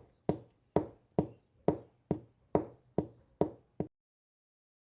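A run of about nine sharp taps or knocks, evenly spaced at roughly two a second, stopping abruptly near four seconds in.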